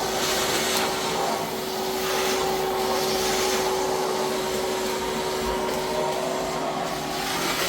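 A steady whirring noise with a constant even hum, a little stronger in the middle.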